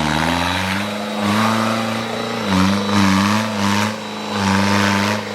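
Off-road vehicle engine revving repeatedly, its pitch rising and falling several times.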